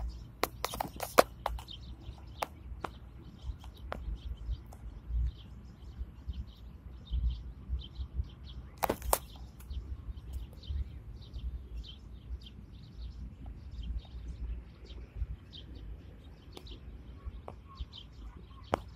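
Short high bird calls repeated throughout over a low rumble, with a few sharp clicks, the loudest about a second in and near nine seconds in.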